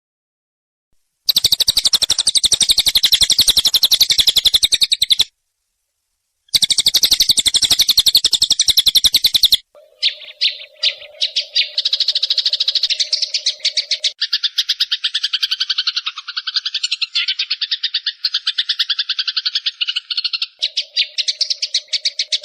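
Eurasian tree sparrows in a fighting chatter: very fast, harsh trains of chirps in two bursts of a few seconds each, then running on almost without a break. A lower pulsing buzz sounds underneath at times in the second half.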